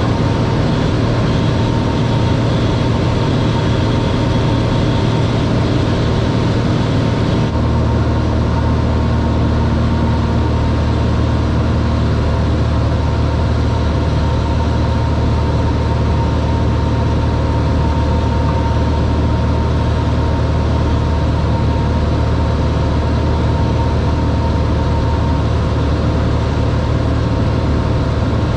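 Cessna 182R's six-cylinder engine and propeller droning steadily, as heard inside the cockpit. About seven seconds in, the pitch and character of the drone shift abruptly and the hiss becomes duller, then it holds steady again.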